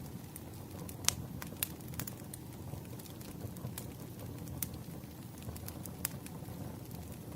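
Firewood burning: a steady low hiss of flame with irregular sharp crackles and pops of the wood, the sharpest about a second in.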